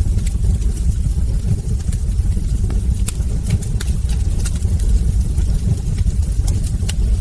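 Wood fire burning in a fireplace: a steady low rumble with sharp crackles and pops scattered through it.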